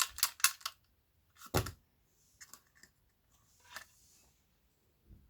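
Handling noise from taking apart a subwoofer: a quick run of sharp clicks, then one loud knock about a second and a half in, followed by fainter clicks, a short rustle and a soft thump near the end.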